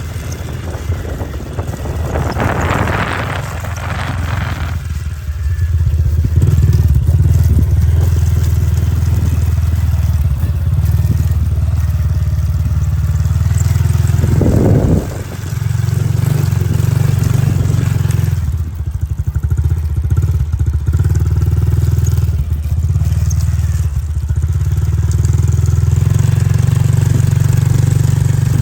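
Motorcycle engine running steadily at low revs, growing louder over the first few seconds and dropping briefly about halfway through before picking up again.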